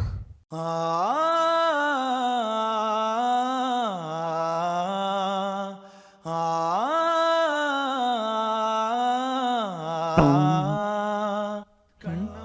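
Background music: a slow, chant-like melody of long held notes that glide up and down, in two phrases of about five seconds each with a short break between them.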